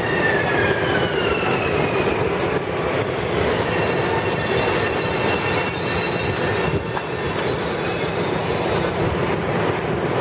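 Bombardier M7 electric multiple unit slowing to a stop at a platform: a whine falls in pitch over the first few seconds, then a high squeal holds from about three seconds in until near the end, over steady wheel and rail noise.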